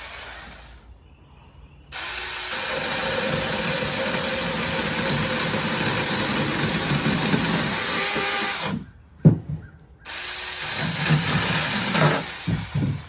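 Cordless battery mini chainsaw running and cutting wood in two runs: a steady run of about seven seconds, a short stop with a sharp knock, then about three seconds more.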